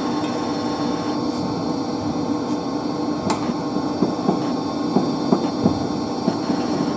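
Steady hum of running pump-room machinery, with several fixed tones. From about three seconds in, a series of short light clinks and knocks from hand work on the opened circulation pump.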